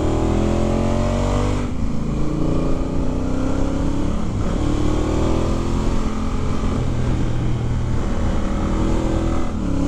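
Honda Africa Twin parallel-twin engine under way, pitch rising as it pulls and dropping back at gear changes about 1.7 and 4 seconds in, then running more evenly. Wind rush runs under it.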